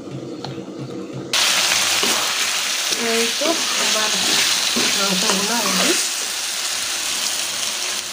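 Pieces of meat and potato sizzling in spiced oil in a pan as they are sautéed and stirred. The sizzle starts suddenly about a second in, and a faint voice comes through in the background about halfway through.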